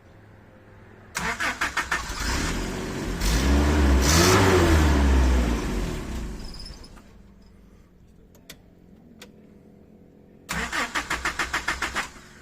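1982 Toyota pickup engine on a cold start: the starter cranks briefly, the engine catches and revs up and back down, then winds down and stops. About three seconds later the starter cranks it again for a second and a half.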